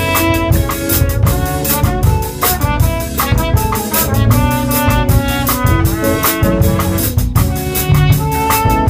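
Small band playing an instrumental jazz-style tune: a drum kit keeping time under sustained melody notes and chords.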